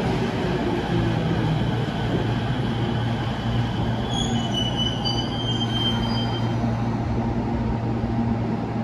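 Tokyo Metro 05 series subway train slowing to a stop at a platform, with a steady low hum. Thin, high brake and wheel squeals come in around the middle and fade after a few seconds.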